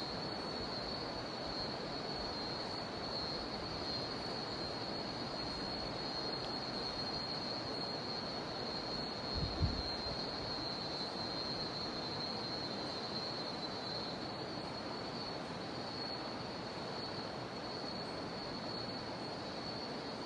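River water rushing steadily under a continuous high, steady drone of cicadas. A brief low thump comes a little under halfway through.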